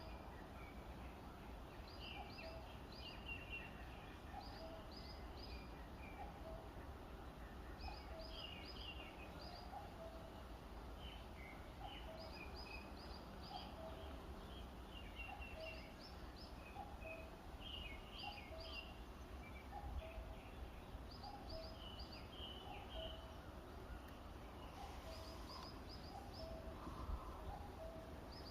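Forest birds singing: short, high chirping phrases repeated every second or two, with a lower short note sounding about once a second, over a steady low rumble.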